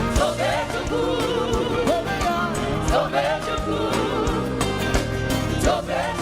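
Live gospel praise music: voices singing with wavering melody lines over a band with bass and a steady drum beat.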